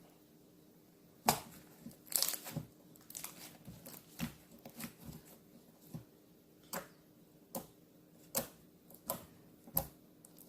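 Handmade slime being pressed and stretched by hand, giving sharp pops and crackles: a cluster of crackling about two seconds in, then single pops roughly once a second.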